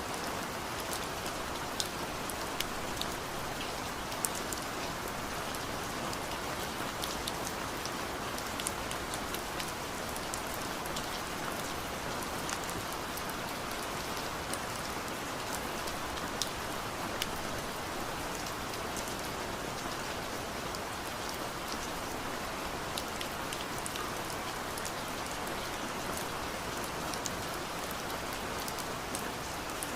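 Steady rain falling on a surface, an even hiss with many separate drops ticking sharply through it.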